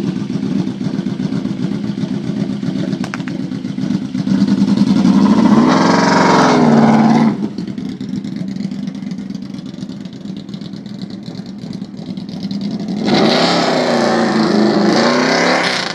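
2005 Yamaha V-Max's V4 engine running through a UFO Dragstar 4-into-1 exhaust, revving up hard twice: about four seconds in and again near the end, each surge rising and falling in pitch before dropping back to a steady run. The engine is out of tune, fitted with the new exhaust but not yet rejetted.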